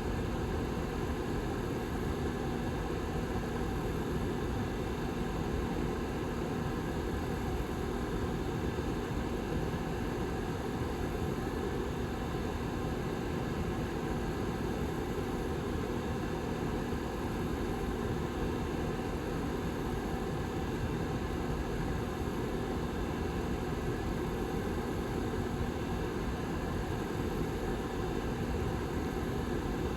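Rear fan of a Lasko 755320 tower heater running steadily: a constant whirring rush of air with a low hum.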